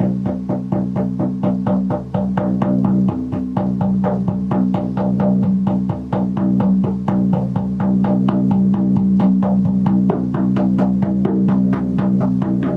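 Music: a drum beating steadily, about four strikes a second, over a sustained low drone.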